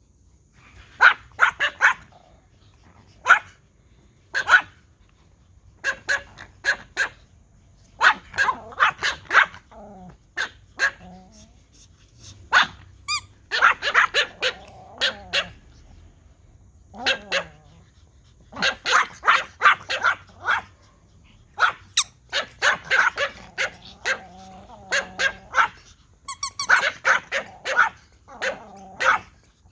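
Several toy Pomeranians barking in repeated volleys of short, sharp, high yappy barks with brief pauses between, set off by a whistle.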